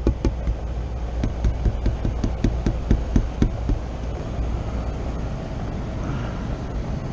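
A fast run of sharp knocks, about four a second, that stops about three and a half seconds in, over the steady low hum of running HVAC equipment.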